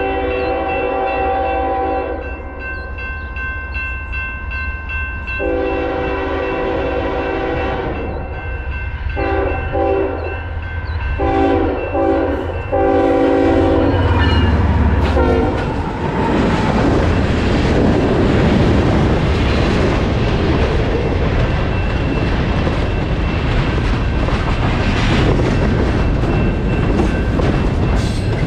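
Norfolk Southern diesel freight locomotive's horn sounding the grade-crossing pattern: two long blasts, then shorter broken blasts ending in a longer one, over a crossing signal bell ringing steadily. About 14 s in, the locomotive passes close by with a loud engine rumble. Then loaded freight cars roll past with steady wheel noise and clickety-clack over the rail joints.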